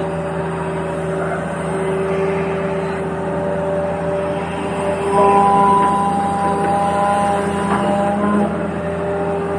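Toy vehicle's motor running with a steady whine; a higher tone joins and it gets louder about five seconds in, then falls back near the end.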